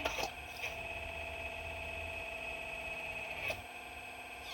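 Excavator running with a steady high whine. A low rumble under it drops out about three and a half seconds in, with a sharp click; a few clicks also come right at the start.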